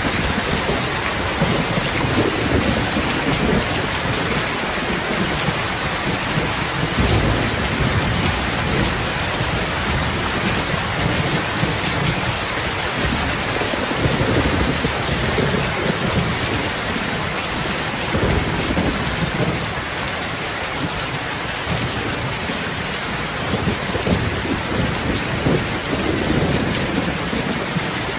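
Heavy rain falling in a steady dense hiss, with low rolling rumbles of thunder swelling and fading underneath.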